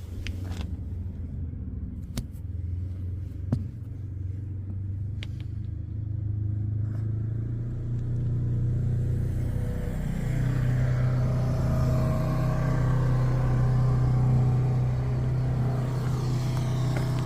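Built 350-cubic-inch V8 with 2.5-inch dual exhaust running with a steady low rumble. It grows louder about halfway through. A few light clicks come in the first few seconds.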